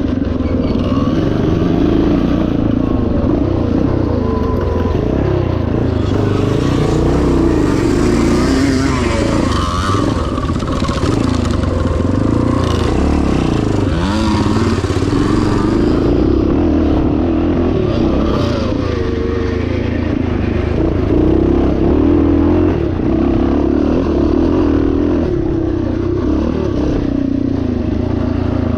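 1977 Yamaha TT500's single-cylinder four-stroke engine running under load, its pitch rising and falling with the throttle. A harsher hiss is added from about six seconds in for about ten seconds.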